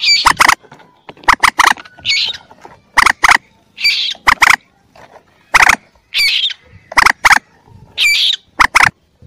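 Common moorhen chick calls from a looped lure recording: one call group repeated about once a second, each a high looping note followed by two or three short, sharp notes.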